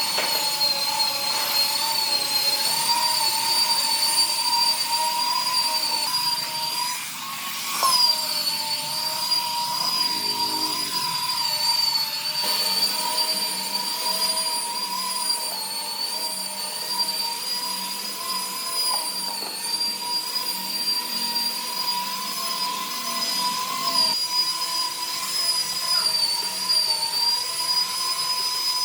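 A power tool's motor running with a steady high whine, its pitch dipping briefly and recovering about seven or eight seconds in.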